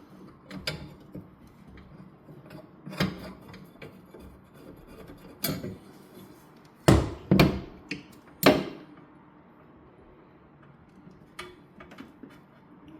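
A run of knocks and clunks, like parts and tools being handled, with three louder knocks between about seven and eight and a half seconds in.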